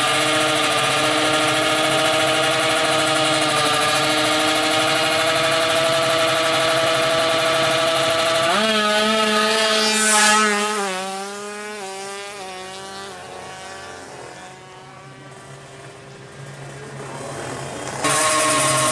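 Tuned two-stroke 155cc drag-bike engine held at high revs. About eight seconds in the revs drop off and it quietens for several seconds, then it is revved hard again near the end.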